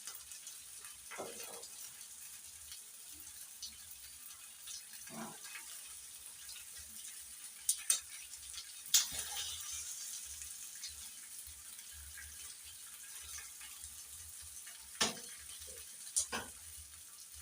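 Faint steady hiss with a few scattered light clicks and taps of a utensil on a dish, in small clusters around the middle and near the end.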